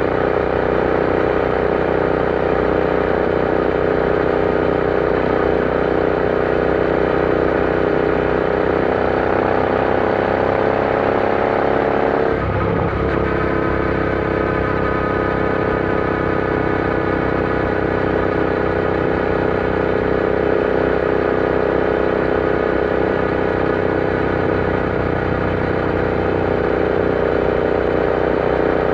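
Royal Enfield Interceptor 650's parallel-twin engine running under way on the road. Its pitch climbs slowly, breaks briefly about twelve seconds in with a gear change, then holds steady at a slightly lower pitch.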